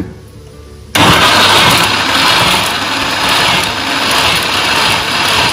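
Electric mixer-grinder switched on about a second in and running steadily, its blade churning a watery chutney of roasted snake gourd, coconut and urad dal into a smooth paste.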